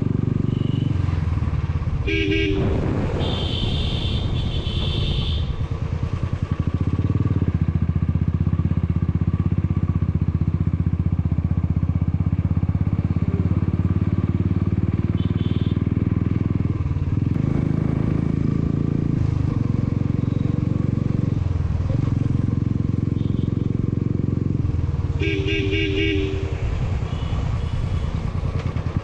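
Motorcycle engine running steadily on a hill climb, with short pulsing horn honks about two seconds in and again near the end.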